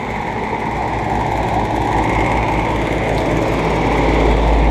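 AAON air-conditioning unit running: steady fan and compressor noise with a low hum, growing gradually louder.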